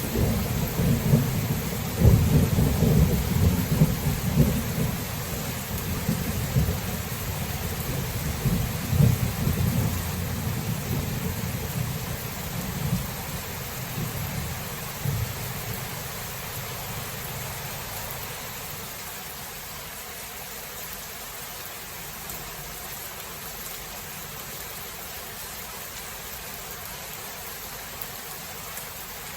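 Thunder rolling over steady rain, with a sharp clap about two seconds in, then rumbling on and dying away over about fifteen seconds. After that only the even hiss of rain is left.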